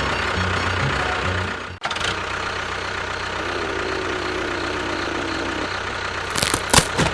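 An engine running steadily, with a brief cut-out about two seconds in, then a few sharp knocks near the end.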